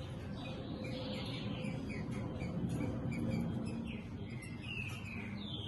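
Caged green-winged saltators (trinca-ferro) chirping: a string of short notes, with a few downward-sliding calls near the end, over a steady low background noise.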